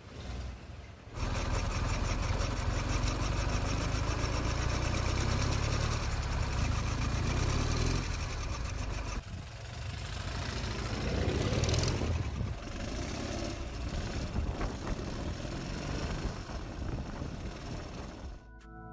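Engine of a restored 1960s Soviet motorcycle running with a fast, even beat, cutting in about a second in; after an abrupt change near the middle it swells briefly as it is revved, then falls away near the end.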